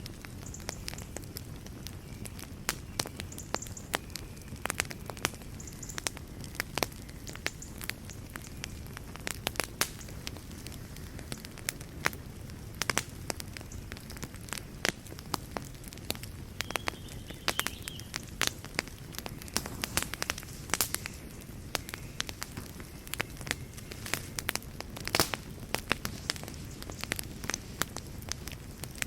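Fire burning in a fireplace, crackling and popping irregularly over a steady low rumble, with a few louder pops such as one near the end.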